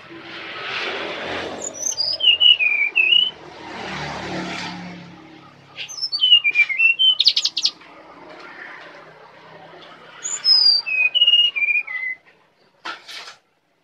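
Brown-chested jungle flycatcher singing: three whistled phrases a few seconds apart, each falling in wavering steps from high to lower pitch over about a second and a half. A rushing background noise swells and fades twice in the first five seconds, and a few short scratchy notes come near the end.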